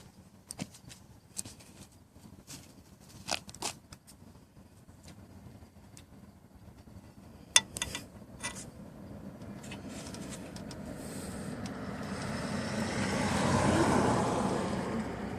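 A few scattered clicks and knocks, then a road vehicle passing: a broad rush of noise that swells over several seconds, peaks near the end and starts to fade.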